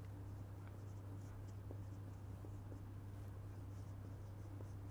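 Faint scratching and small ticks of someone writing or drawing, over a steady low electrical hum.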